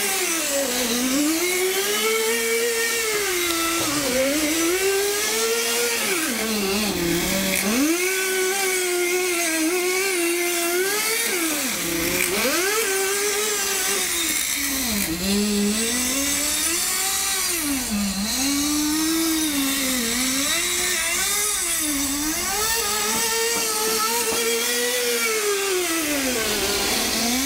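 Kyosho Nitro Blizzard's small nitro (glow-fuel) engine running continuously, its high-pitched whine rising and falling over and over as the throttle is opened and eased off while the model is driven.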